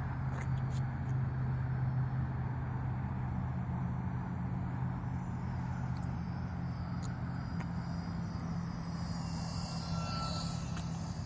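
Small electric RC plane's motor and 6x5.5 propeller, heard as a thin high-pitched whine that slides in pitch as the plane flies past, strongest near the end. Under it runs a steady low hum.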